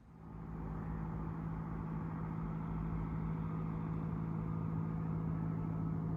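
Engine running steadily at one constant pitch, fading in over the first half second.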